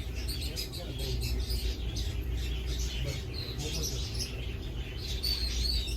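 Small birds chirping, many quick high chirps overlapping, over a steady low hum.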